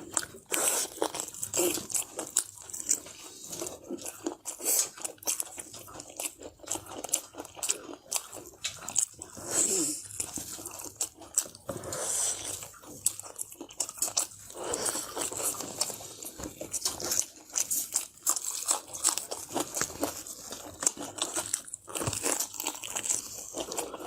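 A person biting and chewing food, with frequent irregular crunches and mouth clicks.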